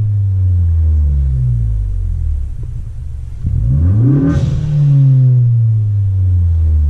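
Ford Focus ST's turbocharged 2.0-litre four-cylinder revved through a straight-through exhaust with muffler and resonator deleted. The revs fall away, then about halfway through it is blipped sharply up with a short rush of noise at the peak, and the revs slowly fall again.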